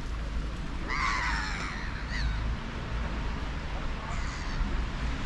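Bird calls: a loud call about a second in, a short second call just after, and a fainter one near the end, over a steady low rumble of wind or background noise.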